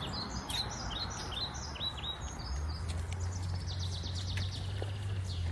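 Songbirds chirping: a string of short, quick chirps for the first two seconds, then a fast, rapid trill. A steady low hum runs underneath.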